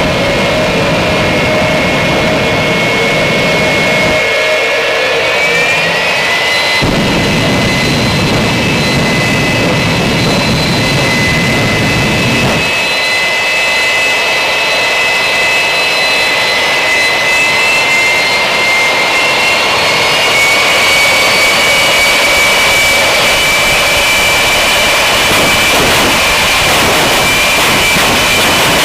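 Hellfire jet truck's jet engine running with a loud, steady whine, its pitch stepping up slightly about six seconds in and again near twenty seconds.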